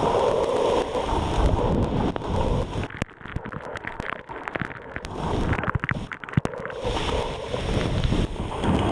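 Torrential rain with wind noise buffeting the microphone. Midway it briefly quietens, with scattered sharp ticks, before the heavy noise returns.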